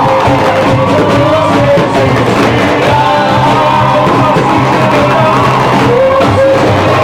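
Group of voices singing a Portuguese Christian worship chorus with instrumental accompaniment, loud and continuous.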